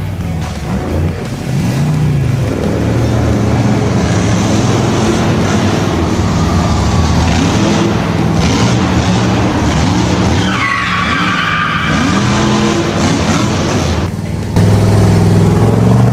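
Racing vehicle engines revving up and down, with tyres squealing and skidding about ten to twelve seconds in. The sound gets abruptly louder near the end.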